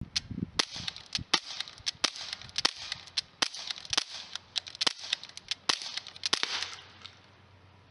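UZI-style CO2 BB airgun, silencer fitted, fired shot after shot in quick semi-automatic succession at about three sharp pops a second; the firing stops about a second before the end. With the silencer on it is only a tiny bit softer than without.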